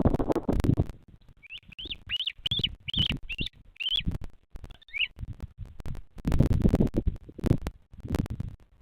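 A bird giving a quick series of about seven high chirps, each rising then falling, set between bouts of loud low rumbling noise at the start and again near the end.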